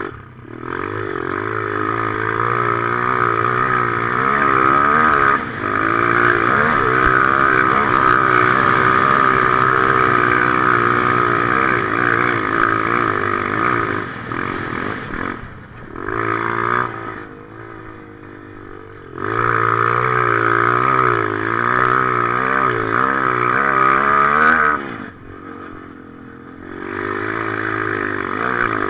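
Motocross motorcycle engine running hard, its pitch rising and falling with the throttle. It eases off briefly about halfway through and again near the end.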